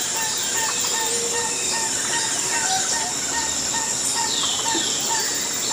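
Birds chirping and calling, with short repeated notes and quick downward-sweeping calls, over a steady high-pitched hum, like a jungle ambience track.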